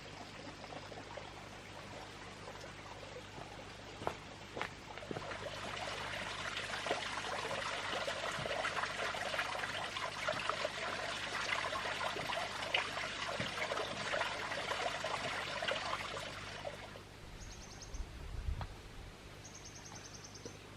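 Water pouring steadily for about eleven seconds after a faint trickle, then stopping fairly abruptly.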